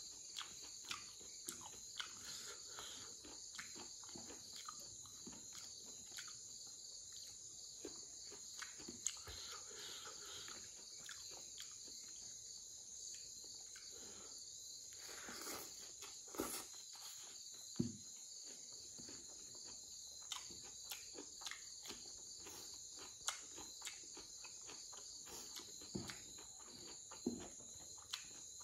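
Close-up eating sounds of a person chewing pork ear and rice: many short sharp clicks and crunches, over a steady high chirring of insects.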